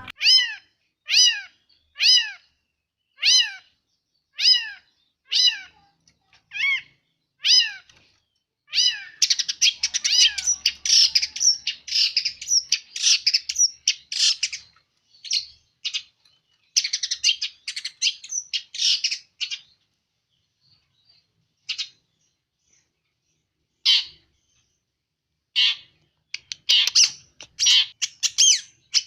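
A long-tailed shrike (cendet) mimicking other animals. It gives a string of falling high calls about once a second, then from about nine seconds in a fast, scratchy chatter that thins to scattered calls before picking up again near the end.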